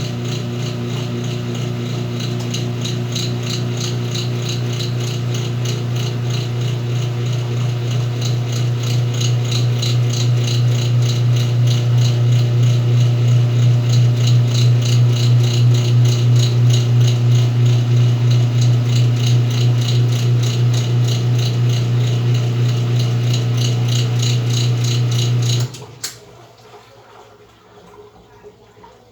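Whirlpool washing machine running: a steady motor hum with a regular rattling pulse that cuts off abruptly near the end.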